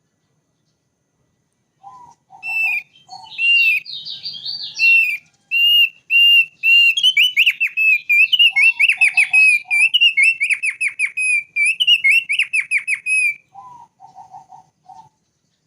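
Thick-billed white-eye (opior paruh tebal) singing: about two seconds in, a long, fast song of high whistled notes and quick down-slurred trills begins, and it stops near the end. A few short, lower notes come just before the song and again after it.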